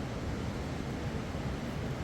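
Mountain river rushing: a steady, even noise of flowing water, heaviest in the low range.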